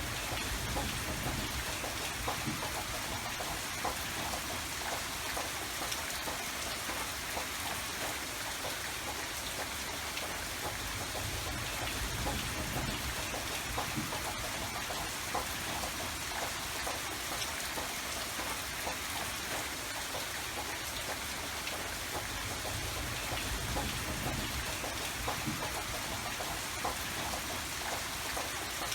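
Steady rain falling, a continuous hiss of rain with scattered individual drops pattering on surfaces and a low rumble underneath.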